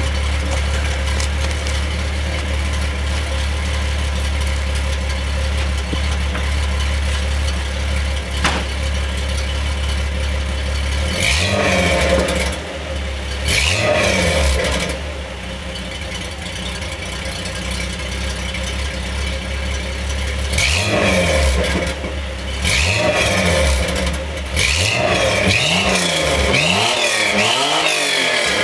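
1984 Toyota Supra's naturally aspirated 5M-GE inline-six running through a Thrush Welded dual-chamber muffler with no catalytic converter, idling steadily for about eleven seconds. It is then revved in short blips, a few spaced apart at first, then a quick string of revs near the end.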